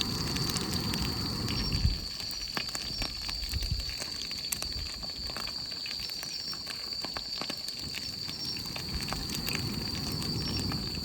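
Irregular crackling and popping from a campfire cooking setup, with chicken wings deep-frying in oil over the wood fire. A steady high tone runs underneath, and there is a low rumble near the start and again near the end.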